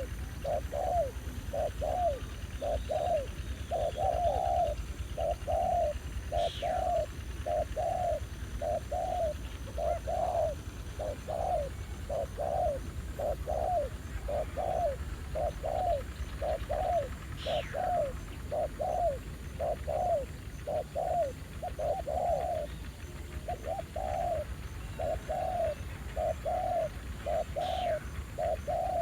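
Spotted doves cooing, a steady run of short low coos one after another with no break. A different bird gives a thin falling whistle three times, and a low rumble runs underneath.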